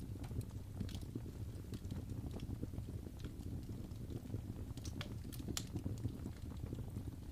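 Wood fire crackling in a fireplace: a steady low rumble of burning with irregular sharp pops and snaps, two louder ones around five seconds in.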